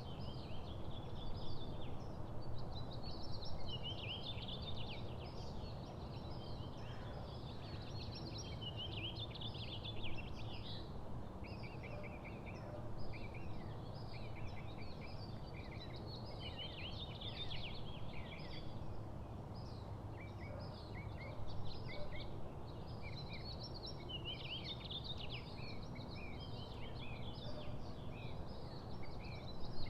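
Small songbirds chirping, many short calls overlapping almost without pause, over a steady low background rumble.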